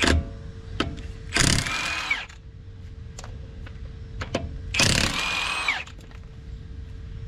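Milwaukee impact wrench running in two bursts of about a second each, loosening the wheel bolts to take a wheel off; its whine drops in pitch as each burst ends. A sharp click comes at the very start.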